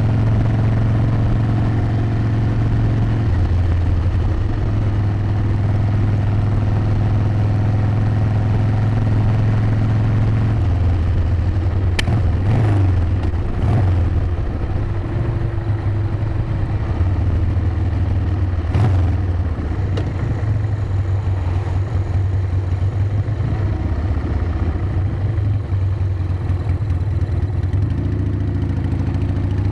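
Harley-Davidson V-twin motorcycle engine running under way. Its note holds steady, steps in pitch a few times, and rises as it accelerates near the end. A few sharp clicks come in the middle.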